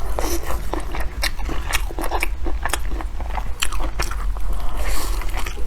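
Close-miked eating: biting into and chewing a crisp fried Chinese chive pocket, with a rapid run of crunching and crackling.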